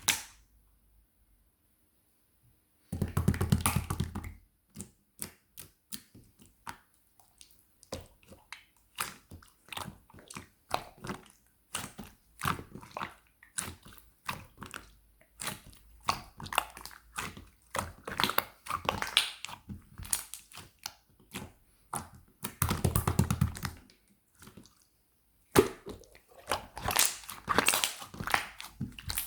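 Irregular sharp clicks and taps, with two dense rapid flurries of clicking about three seconds in and again around twenty-three seconds.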